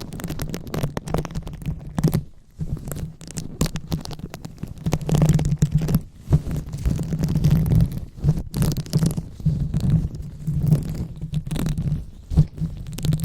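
ASMR microphone 'brain massage': hands rubbing and scratching directly on the microphone, giving an irregular crackling, rubbing noise with a deep rumble that swells and fades as the strokes go on.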